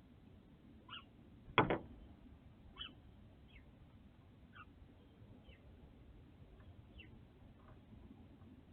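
Northern cardinal striking the window glass with a sharp double knock about a second and a half in, and giving short, high chip notes that slide downward, scattered every second or so.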